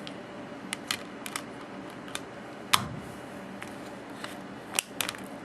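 Plastic Blu-ray case and discs being handled: a string of sharp separate clicks and taps, the loudest a little under three seconds in, with two quick clicks near the end.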